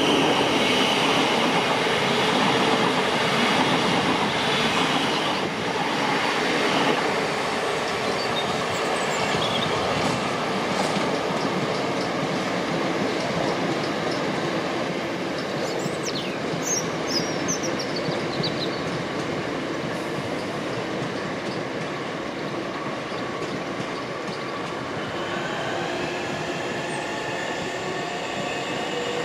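Southeastern electric multiple-unit trains, including Class 707 units, running through the station with the steady noise of steel wheels on rails. A brief high wheel squeal comes about halfway through.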